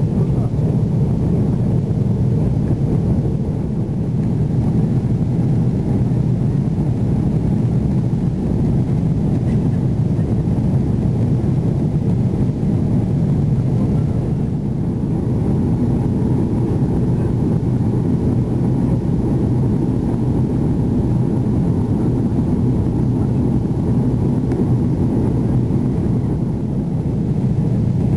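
Airbus A330 engines and airflow heard from inside the passenger cabin: a steady low rumble that holds even throughout, as the jet climbs away after takeoff.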